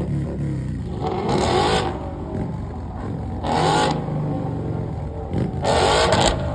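Car engines running at a car meet, with a steady low drone and three short surges of revving about two seconds apart.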